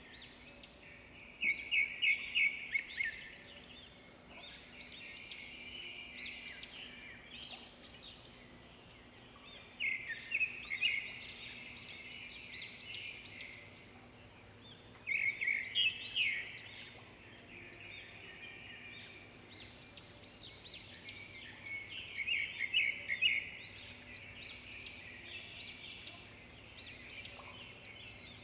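Songbirds chirping and singing in bursts of rapid high notes that come every few seconds, the loudest bouts at about two, ten, fifteen and twenty-three seconds in.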